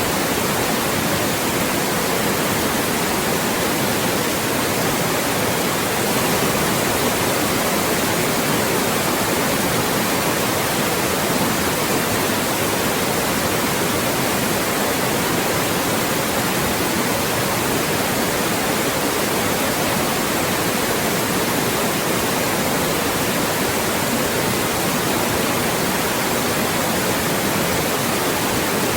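Loud, steady synthetic white noise: an even hiss spread across the whole range, unchanging, of the kind played to mask speech.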